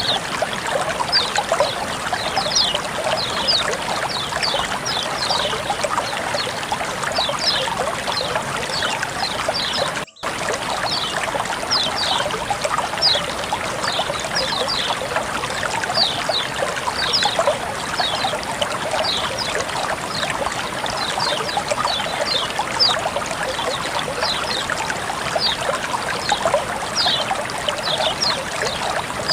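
Water trickling and flowing steadily, with many small splashy gurgles. The sound cuts out for a split second about ten seconds in.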